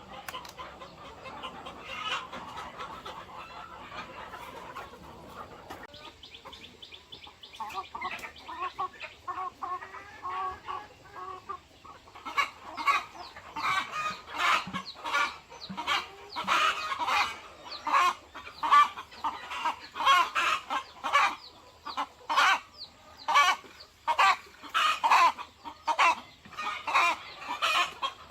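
A flock of chickens clucking. About twelve seconds in, loud short clucks start coming quickly, roughly two a second.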